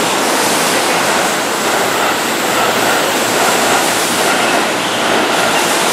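Keihan electric commuter train running past close by on the near track: a loud, steady rushing noise.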